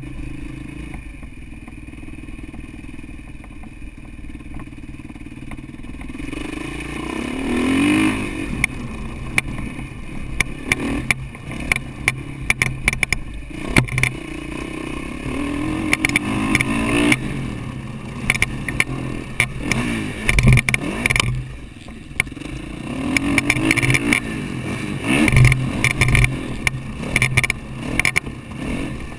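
Motocross dirt bike engine heard from a helmet-mounted camera. It runs low and steady for about six seconds, then revs up and down again and again while riding the track. Frequent knocks and rattles come through over the engine.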